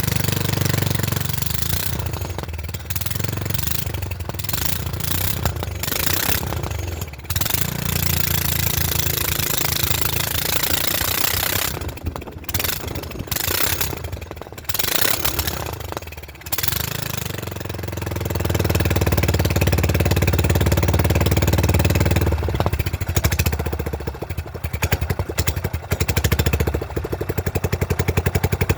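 Honda GX270 single-cylinder engine running cold on a go-kart with an open exhaust port. It runs unevenly, dropping away briefly several times in the first half, then picks up and runs louder and steadier about two-thirds of the way through.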